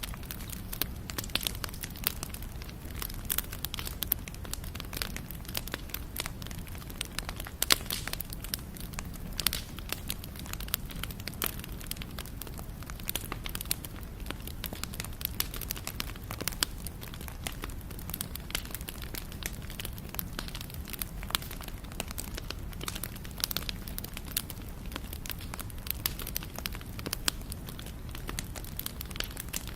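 Wood fire crackling and popping steadily, with irregular sharp snaps, a few louder ones, over a low, steady rumble of burning.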